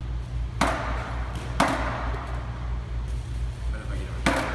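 Skateboard hitting the ground three times, sharp clacks of deck and wheels with a short rolling rattle after each, over a steady low hum.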